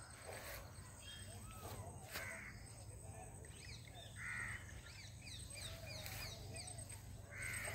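Several birds calling, faint: three louder calls about two, four and seven seconds in, with short arched calls and quick downward chirps between them.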